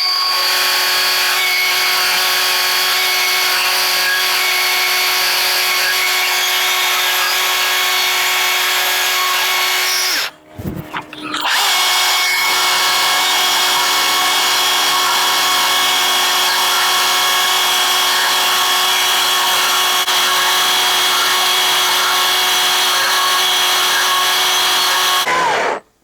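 High-speed rotary power carving tool with a bit running steadily while cutting feather detail into wood, with a high-pitched whine. It stops for about a second roughly ten seconds in, starts again, and stops just before the end.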